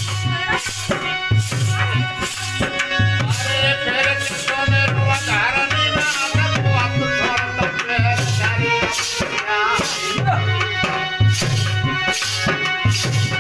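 Instrumental Indian folk music: a hand drum keeps a steady beat of deep strokes about once a second under a sustained melodic instrument.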